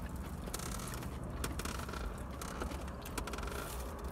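Close-up chewing and crunching of fried chicken, with a scatter of short sharp clicks and crackles, over a steady low hum.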